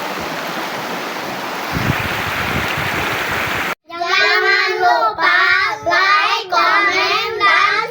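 Flowing water rushing steadily, a little louder from about two seconds in, then cut off suddenly. Just under four seconds in, a high voice starts singing and continues to the end.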